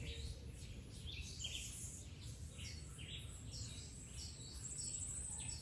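Small birds chirping in short, high notes, a few each second, over a steady thin high-pitched insect hum.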